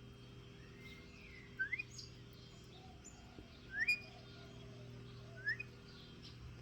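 A pet lory giving short, rising chirps: three clear ones about a second and a half, four and five and a half seconds in, with a few fainter ones between.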